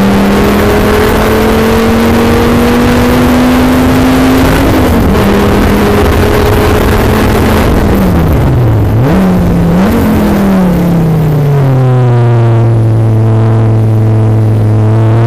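A sports car's engine under hard acceleration, heard from on board, with an upshift right at the start and another about five seconds in. Around eight to ten seconds in the revs fall as it brakes, with two quick throttle blips on the downshifts. It then runs at steady, lower revs through the corner, over a constant rush of wind and road noise.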